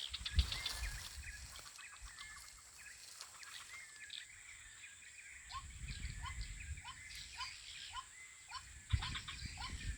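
White-breasted waterhen call played from a hidden mobile phone as a lure: a short rising note repeated about twice a second from about halfway in, after some higher chirps near the start. Low rustling and a thump from handling sit underneath.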